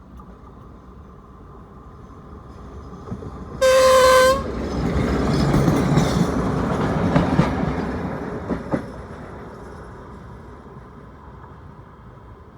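D1-series diesel multiple unit giving one short, loud horn blast a little under four seconds in. The train then rolls past with rumbling and wheel clatter that swell and fade away.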